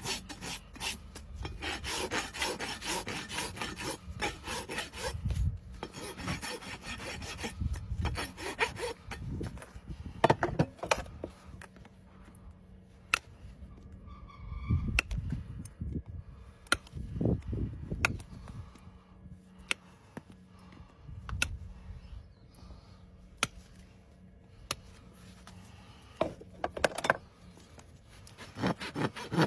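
Hoof rasp filing a horse's overgrown hoof in repeated back-and-forth strokes. It comes in runs, dense at first, then sparser with pauses and sharp clicks, then dense again near the end.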